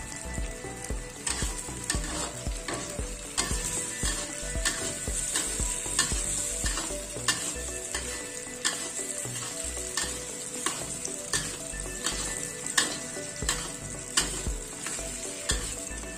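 Dried shrimp frying in hot oil in a pan, a steady sizzle, as a spatula stirs them and clacks and scrapes against the pan about once a second. The shrimp are crisping.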